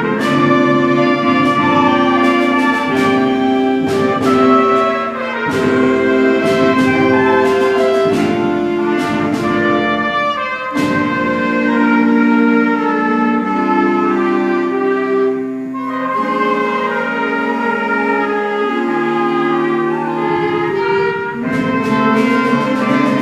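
School concert band of woodwinds and brass playing a piece: held chords that shift every second or two, punctuated by short sharp strikes.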